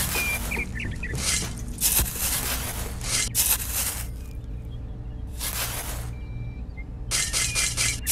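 Miniature hand shovel scraping and digging into loose sand in several short strokes, with a lull in the middle.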